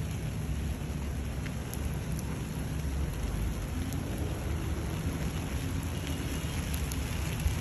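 Steady rain falling on wet asphalt courts, an even hiss with a continuous low rumble underneath.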